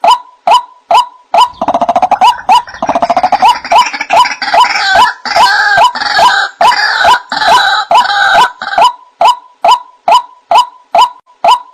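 White-breasted waterhen (ruak-ruak) calling as a lure recording: a steady series of short, evenly spaced "wak" notes, about two or three a second, with a louder, rapid, rough chorus of calls over the middle of the stretch before the plain notes resume.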